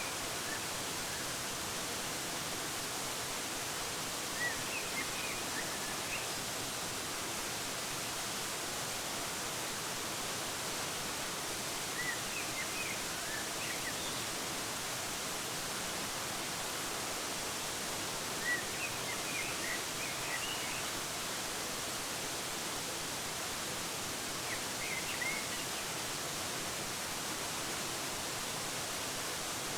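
Steady rushing of a waterfall, with small birds chirping in short clusters about every six or seven seconds.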